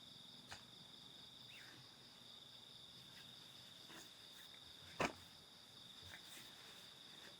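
Crickets or other night insects trilling steadily at a high pitch, with a few faint clicks and one sharp click about five seconds in.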